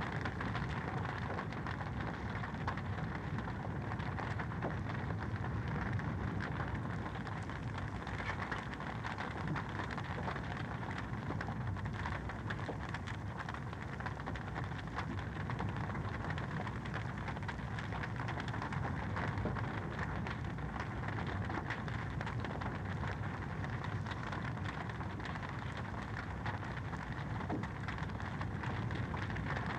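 Fireplace fire crackling steadily: a dense run of small pops and snaps over a low, even rush.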